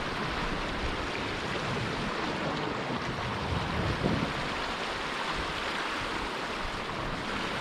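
Ocean surf washing on a rocky shore, a steady rush of water.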